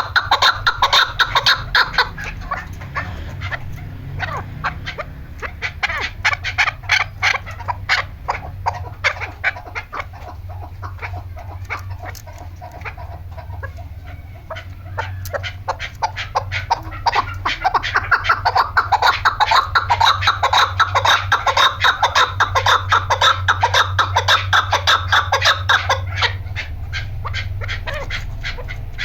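Chukar partridges calling: a fast, continuous run of short clucking notes, several a second. The calling is loud at first, eases off in the middle and builds up loud again in the second half, over a steady low hum.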